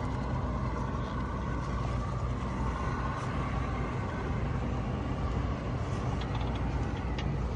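Steady low drone of a boat's diesel machinery running, with a few faint ticks near the end.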